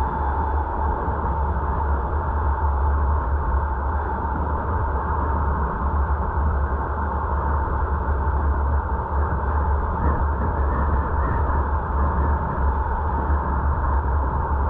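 A car driving at a steady speed: constant road and wind noise with a deep rumble underneath, unchanging throughout.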